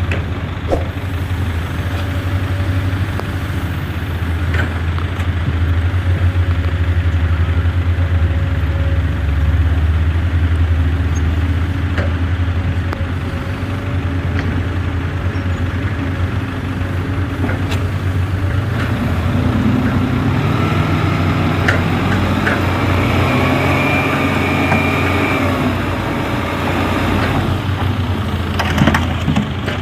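Isuzu Giga dump truck's diesel engine running steadily, revving up and back down for several seconds past the middle.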